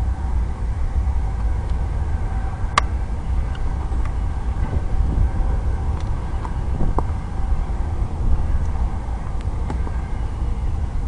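Wind buffeting the microphone in a steady low rumble, with faint steady tones above it and a sharp click about three seconds in.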